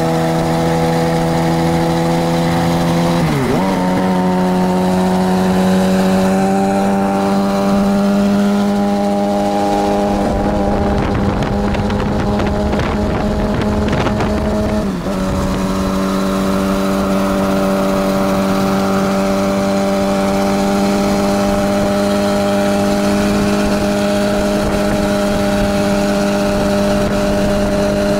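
Suzuki GSX-R750 inline-four engine running at a steady cruise. About three seconds in, its pitch dips and then settles higher, and it dips briefly again about fifteen seconds in.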